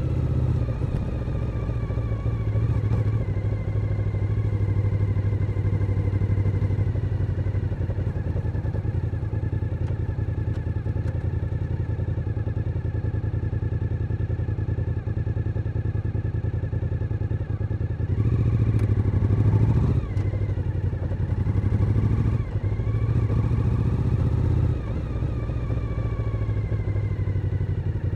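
Suzuki SV1000N's 90-degree V-twin engine running under way, mostly holding steady revs. About two-thirds of the way through it gets louder as the revs climb, drops briefly, then climbs again and falls away.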